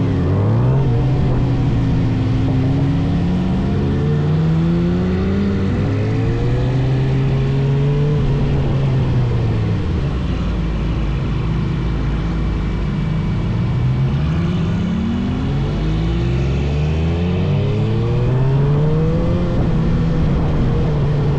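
A vehicle engine repeatedly accelerating and easing off, its pitch climbing slowly over several seconds and then falling, over steady road and wind noise.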